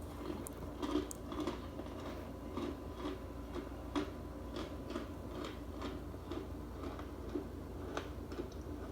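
Starch being crunched: a steady run of short, crisp crunches, about two a second.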